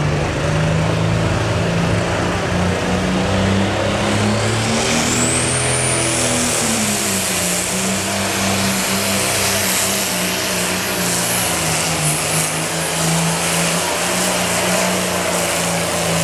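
Turbocharged super stock pulling tractor engine running hard, its note stepping up slightly partway through. A high turbo whine climbs sharply about five seconds in and then holds.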